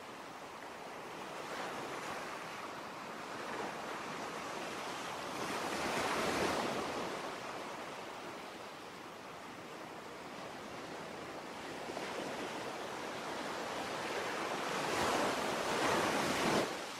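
Ocean waves surging and washing in, swelling to one crest about six seconds in and a bigger one near the end, which cuts off abruptly.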